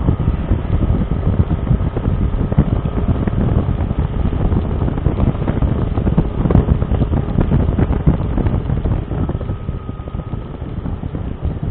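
Wind buffeting a motorcycle dashcam's microphone over the rumble of a moving motorcycle, a steady loud low rushing noise.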